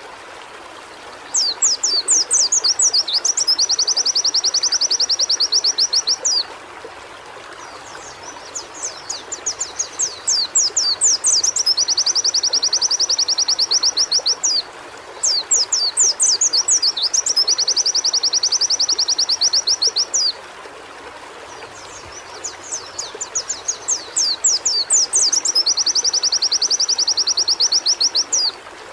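White-eye (pleci) songbird singing four long song phrases. Each opens with quick high sweeping notes and runs into a fast, even high trill lasting a few seconds. A steady rushing noise runs underneath.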